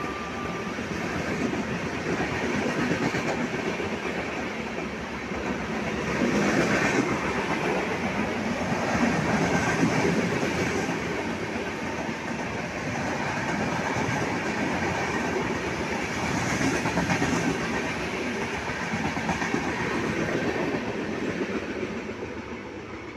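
An Indian Railways express train's passenger coaches running through a station without stopping: a steady rumble and rush of wheels on rail with clattering over the rail joints and a few louder swells, getting fainter over the last couple of seconds as the train clears.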